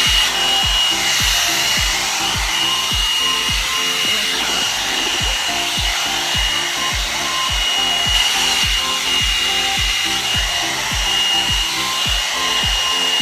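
Hot air brush hair dryer running on its low setting: a steady high whine over rushing air. Background music with a steady beat plays alongside.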